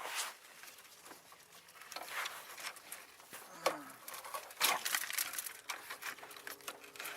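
Scattered light clicks, knocks and rustling from hands handling tools and parts, with a few sharper clicks about two, three and a half and four and a half seconds in.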